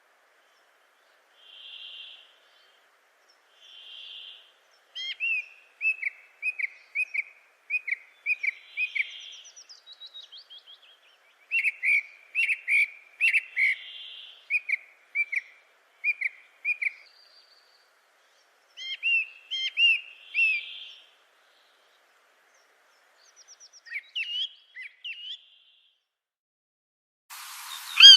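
Bird song: runs of short, quick chirping notes in phrases, with a softer blurred call repeating every couple of seconds. Near the end a different recording cuts in with a steady hiss and a loud falling whistle.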